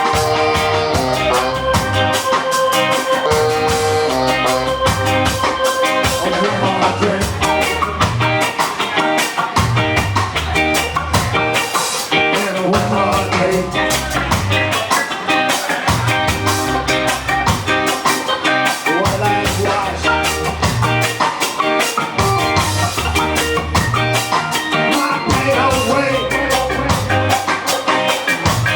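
Ska band playing live, with a steady beat from drums and bass and guitar on top. Long held notes sound over the band for about the first six seconds, then the sound fills out.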